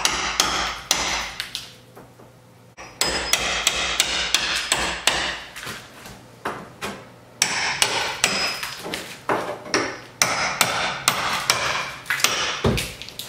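Hammer striking a chisel again and again, roughly one or two sharp blows a second with a short pause about two seconds in, as the chisel is driven behind fireplace-surround tiles to pry them off.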